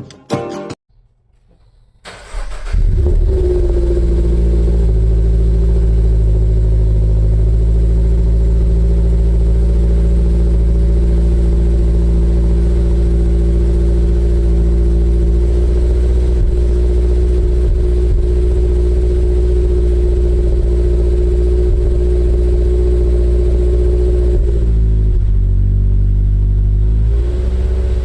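Toyota GR86's 2.4-litre flat-four starting about two seconds in and settling into a steady idle through a GReddy Trust Comfort Sport GT Slash aftermarket muffler. Near the end the idle note drops and wavers.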